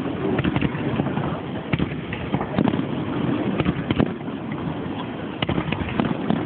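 Fireworks display going off: a rapid, irregular scatter of pops and crackles with several louder bangs, over a steady rushing background.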